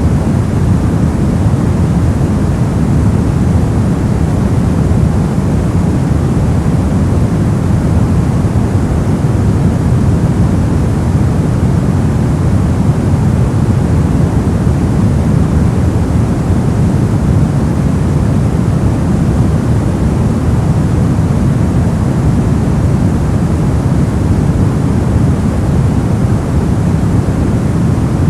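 Steady, unbroken noise played as a white-noise sleep and masking sound. It is deep and rushing, with most of its weight in the low end and little hiss on top, and it does not change.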